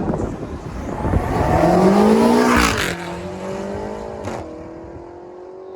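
Car engine revving hard, climbing in pitch and loudness for about a second and a half, then letting off sharply about three seconds in and running on at a steady, lower drone.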